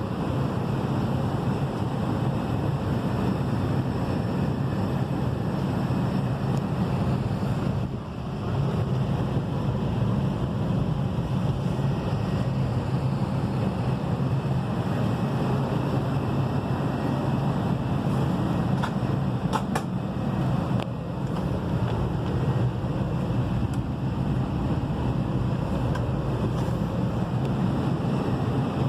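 Steady rumble and rush of air inside an Airbus A320 cabin, with a few faint clicks about two-thirds of the way through.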